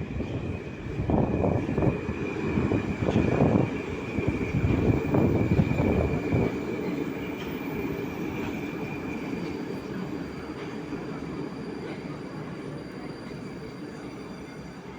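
Moscow-2020 (81-775/776/777) metro train entering the station: a heavy low rumble in uneven surges for about six seconds, then a smoother sound that dies away as the train slows to a stop. A thin high steady whine fades out partway through.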